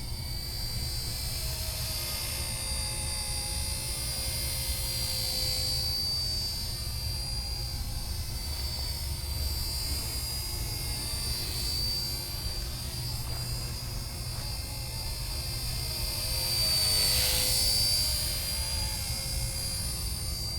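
Small electric RC ERA UH-1 Huey model helicopter flying, its motor and rotors giving a steady high-pitched whine over a low rumble. It swells louder for a couple of seconds near the end.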